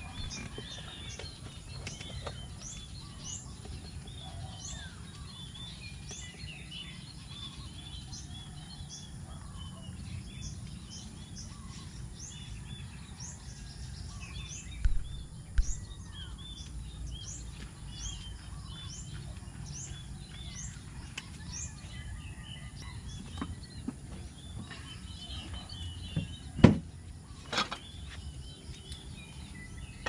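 Many small birds chirping in short, rising, high notes over a steady low outdoor rumble, with a few sharp knocks in the second half, the loudest a little before the end.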